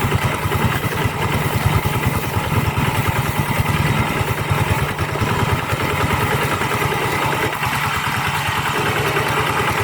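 Two-wheel hand tractor's single-cylinder diesel engine running steadily, with a rapid, even beat of firing pulses.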